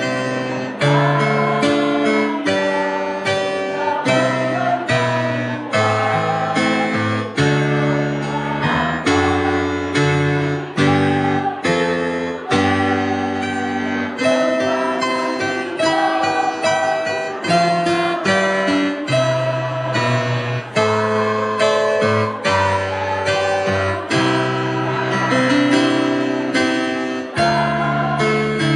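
A choir singing a song with instrumental accompaniment, in a steady rhythm with no break.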